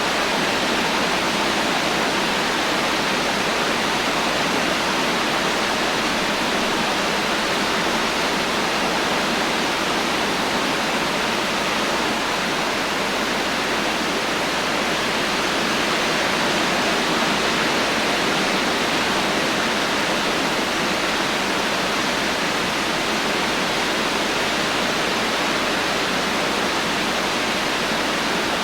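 Heavy rain falling in a steady, dense hiss with no thunder and no separate drops standing out.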